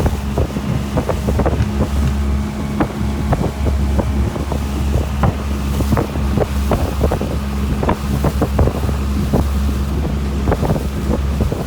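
Motorboat under way: the engine's steady low drone, wind buffeting the microphone, and frequent short knocks and slaps throughout.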